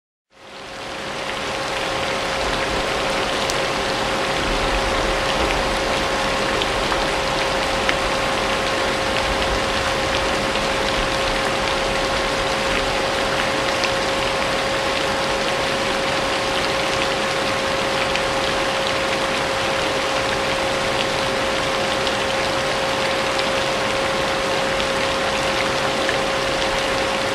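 Vacuum cleaner running steadily with a constant motor whine, mixed with steady rain. It fades in from silence over the first couple of seconds.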